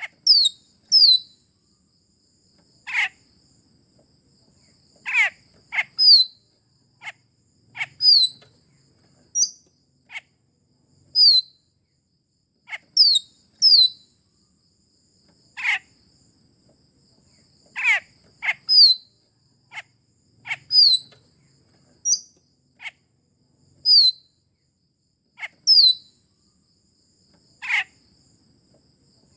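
Sulawesi myna (raja perling) lure calls: short, sharp notes that sweep downward in pitch, repeated every second or two. Some are high and doubled, others drop from a high pitch to a low one. A faint steady high-pitched tone runs beneath them.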